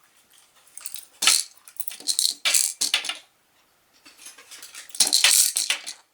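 A budgie knocking a plastic toy cow candy dispenser about, making a run of light, irregular clattering and rattling knocks in several clusters.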